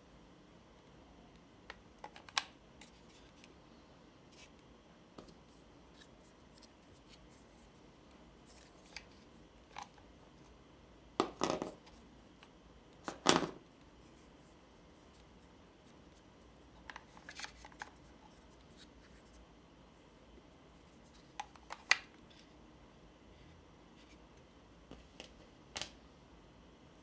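Hands handling small plastic gadget parts and packaging: scattered sharp clicks and short rustling snaps at irregular intervals, with two louder clusters near the middle.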